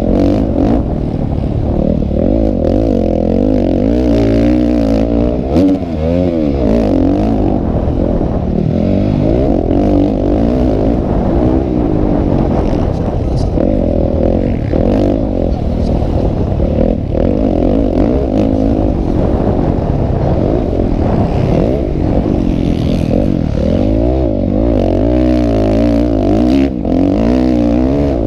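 Motocross motorcycle engines racing, the pitch climbing and dropping again and again as the riders open and close the throttle and shift through the gears; more than one engine can be heard at once.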